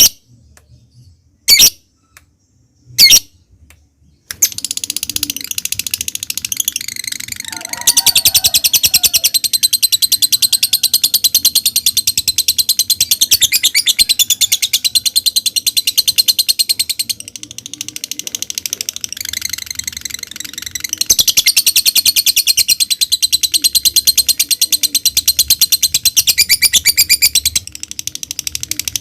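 Lovebird singing: a few short, sharp separate calls, then, about four seconds in, a long continuous rapid trill (the 'ngekek'). The trill runs on at a very fast pulse, eases off for a few seconds midway, swells again and softens near the end.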